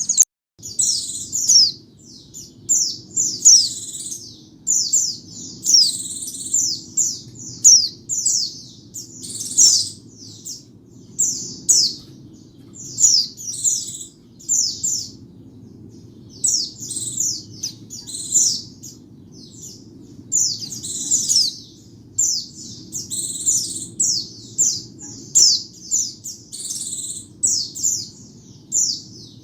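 White-eye (pleci) singing: quick, high, twittering phrases of rapid chirps, one after another about every second with short pauses between, over a faint steady low hum.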